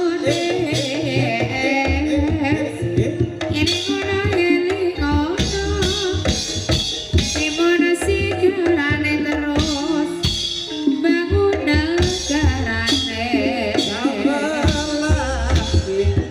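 Live ebeg dance-trance accompaniment: Javanese kendang hand drums playing a dense rhythm under a melodic ensemble, with a voice singing a wavering melody over it.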